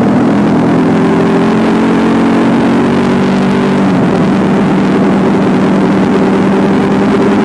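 Motorcycle engine running at a steady cruising speed over a constant rush of wind and road noise, recorded on the move. The engine note drops about four seconds in, then holds steady at the lower pitch.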